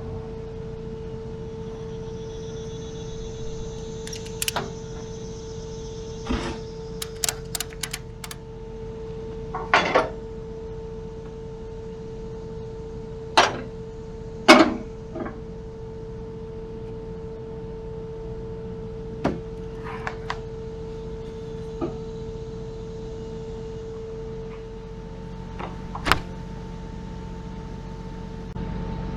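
Scattered knocks, clanks and a quick run of clicks, over a steady hum, from load-securing work on a flatbed trailer: straps and V-boards being handled and set on the load.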